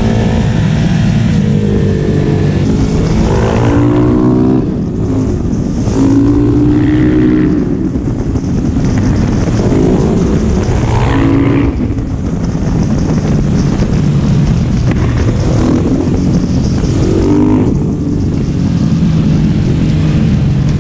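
Single-cylinder KTM LC4 motorcycle engine running under load. Its pitch rises several times with drops in between, as the bike is ridden hard through the revs.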